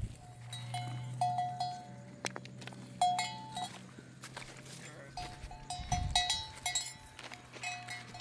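Bells on a flock of goats and sheep clinking and ringing irregularly, many short notes, over a steady low hum.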